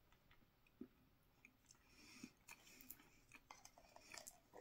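Faint chewing of a crunchy white-chocolate-coated sugar cookie bite: soft, scattered crunches and small clicks, a little more frequent near the end.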